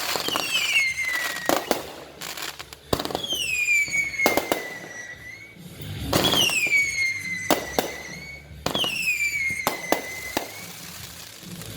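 Fireworks going off in quick succession: many sharp bangs and crackles, with four shrill whistles about three seconds apart, each falling in pitch over about two seconds.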